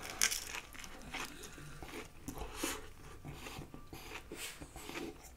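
Close-miked chewing of a fried fish bao with a crispy wonton cracker, making irregular crisp crunches.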